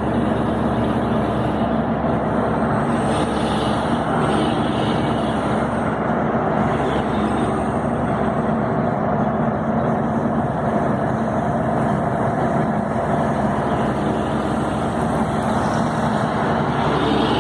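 Scania 112 truck's diesel engine running steadily under way, heard from inside the cab together with road and cab noise, with a faint high whistle wavering now and then.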